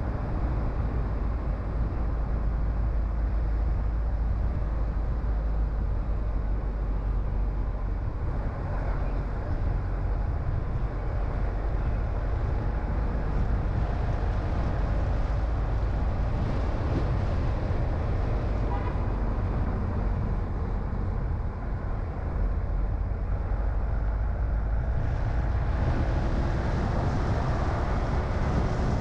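Steady low rumble of a car being driven, engine and tyre noise heard from inside the car.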